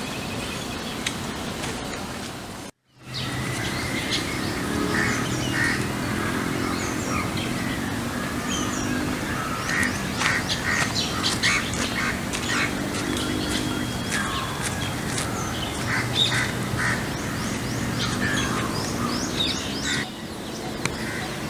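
Several birds calling and chirping over a low, steady hum, with a brief break to silence about three seconds in.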